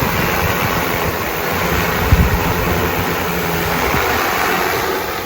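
EFT G416 agricultural spray drone's three-blade propellers running steadily as it flies, lightly loaded with an empty tank. Gusty wind buffets the microphone with an irregular low rumble.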